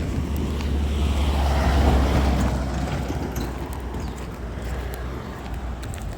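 A motor vehicle passing close by on the road, growing louder to about two seconds in and then fading away, over a steady low rumble.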